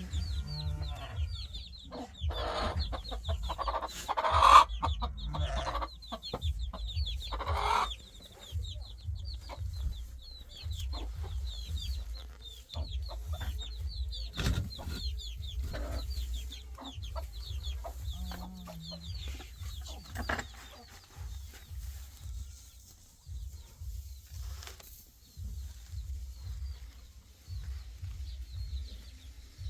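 Chickens clucking amid many quick, high chirps, over a steady low rumble, with some clattering knocks in the first few seconds.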